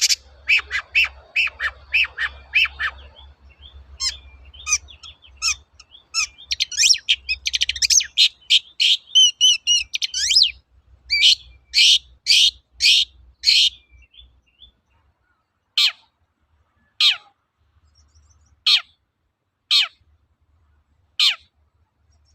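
Long-tailed shrike (cendet) calling: a fast, harsh chattering run of high notes, then sharp calls about two a second, ending in five single downward-sweeping calls spaced a second or so apart.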